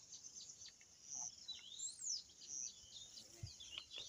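Small birds chirping: many short, high chirps and one whistle that rises and falls, heard faintly.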